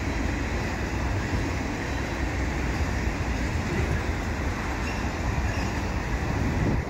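Freight train of autorack cars rolling past: steel wheels on the rails make a steady, dense rolling noise.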